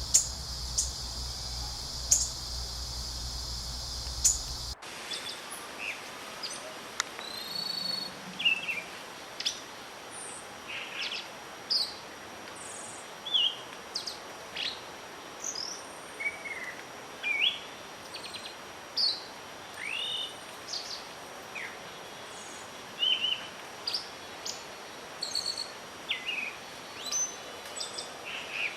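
For the first few seconds, a low hum and a steady high-pitched drone with a few sharp clicks. This cuts off abruptly, and songbirds follow with many short chirps, whistles and rising and falling calls over a steady hiss.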